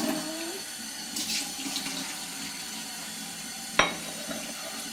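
Tap water running steadily into a sink as dishes are rinsed, with a child's sung note trailing off at the start. A single sharp knock comes near the end.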